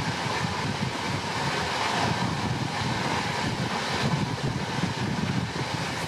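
Passenger train running, a steady rumble and rush of wheels and air, with wind on the microphone.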